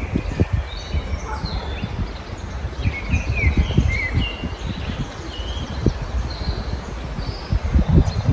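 Several small songbirds chirping and singing, with short, overlapping calls and quick gliding notes, over a steady low rumble.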